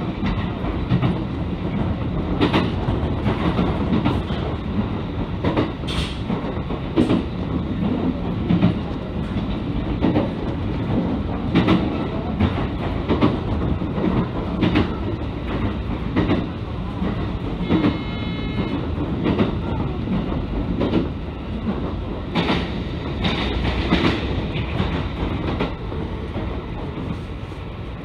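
Running noise of a train heard from inside the passenger car, with the wheels clacking over rail joints every second or two. A brief high ringing tone comes about two-thirds of the way through.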